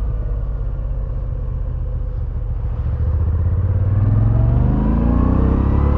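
Moto Guzzi V7 850's air-cooled transverse V-twin running at low revs, then pulling harder with its note rising in pitch from about three seconds in.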